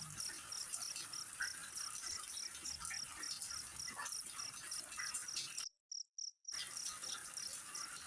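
Crickets chirping in a steady, even rhythm, about three pulses a second, over a constant high hiss and scattered small ticks. The sound drops out for an instant a few times about six seconds in.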